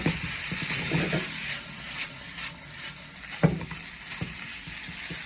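Chicken chow mein with noodles, cabbage and egg sizzling in a hot pan as it is stirred, with a steady hiss. A utensil knocks against the pan several times, most sharply right at the start and about three and a half seconds in.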